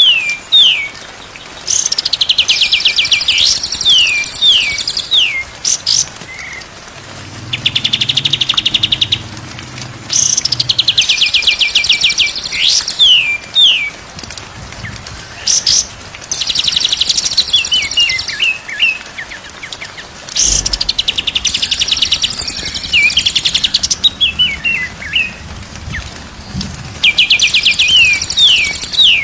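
Recorded songbird song, loud and repeating over and over: bursts of fast rattling trills alternating with short downward-sliding whistles.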